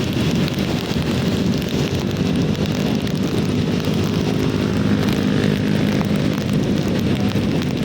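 Heavy rain falling steadily, with a low, steady hum joining in about a second and a half in.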